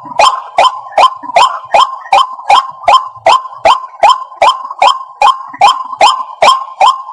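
White-breasted waterhen calling: a fast, even series of loud, sharp notes, about two and a half a second.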